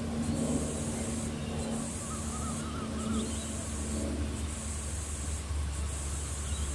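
A high, hissing insect chorus pulsing in long even swells, about one every second and a half, over a steady low rumble. A bird gives a few faint chirps about two seconds in.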